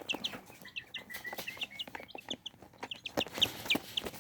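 A group of young chicks (Buff Brahma, Silkie, Serama and Wyandotte) peeping over and over in short, high, falling cheeps, with small pecking taps as they eat feed.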